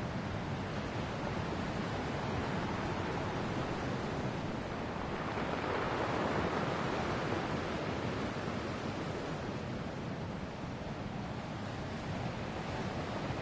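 Ocean waves washing on a shore: a steady hiss of surf that swells to a peak about halfway through and then eases off.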